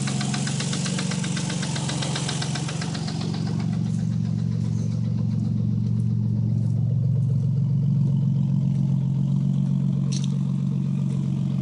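1990 Nissan 300ZX's V6 engine idling with a fast, loud ticking from the valvetrain, which the owner takes for a very bad lifter tick rather than rod knock. The ticking is fainter from about three seconds in, and there is one sharp click near the end.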